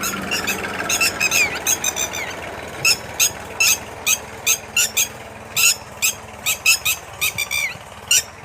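Birds chirping in short, sharp, high calls repeated about twice a second, over a low, steady background rumble that thins out about halfway through.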